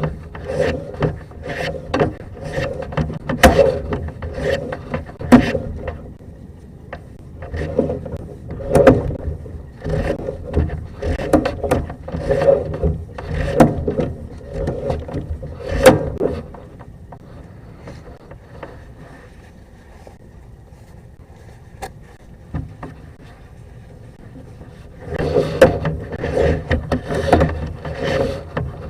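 Sewer camera push cable rubbing and scraping as it is worked by hand, in repeated strokes about one to two a second. It goes quieter for several seconds after the middle and the strokes pick up again near the end.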